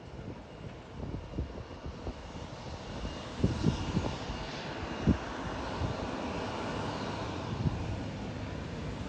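Airliner engine noise swelling a few seconds in and holding, as an aircraft moves at the airport. Several low thumps of wind or handling on the microphone come near the middle.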